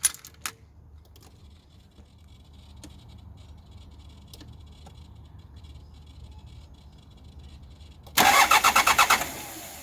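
Hyundai Terracan's 2.5-litre D4BH four-cylinder diesel starting: a click, a few quiet seconds, then about a second of loud rapid cranking on the starter before the engine catches. This is the first start after a missing adjusting shim was refitted to cure an engine knock.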